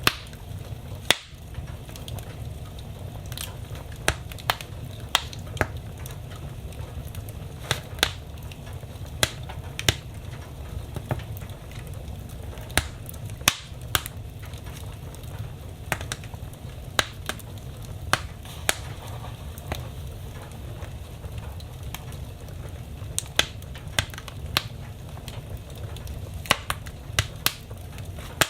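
Wood fire burning in a fireplace: a low steady rumble of flames with irregular sharp crackles and pops of burning logs, one or two a second.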